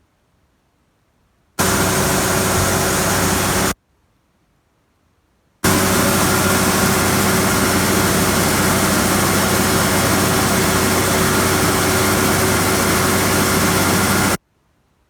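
Gleaner combine running steadily: a constant engine drone with a broad rushing noise over it. It is heard twice, about two seconds and then about nine seconds, each starting and stopping abruptly.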